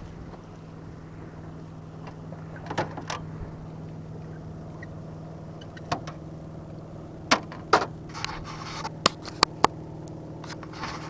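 Boat motor running steadily with a low, even hum while trolling. Scattered sharp knocks and clicks fall over it, thickest in the second half, with a couple of brief scuffing noises.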